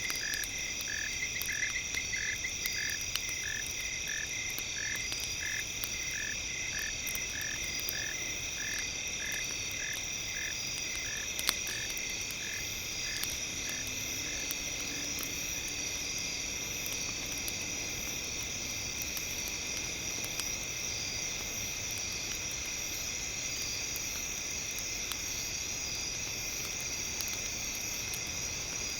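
Campfire crackling with scattered small pops and one sharper pop about eleven seconds in. Under it runs a steady high, insect-like chorus of held tones, and a chirping call repeats two or three times a second, fading out by about halfway.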